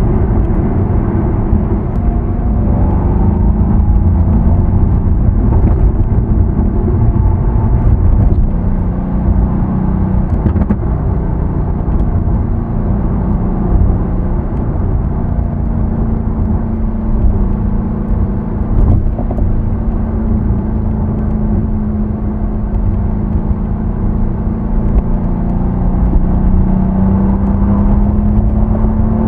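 Mercedes-AMG C63 S (W205) twin-turbo V8 on its stock exhaust, running steadily on the move with a deep low rumble; its note drifts in pitch and climbs near the end as the revs rise.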